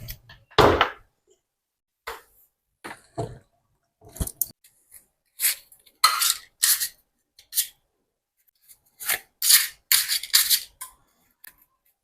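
A string of short, separate handling sounds: scrapes, rustles and light knocks, each lasting a fraction of a second, with silence between them and a busier cluster near the end.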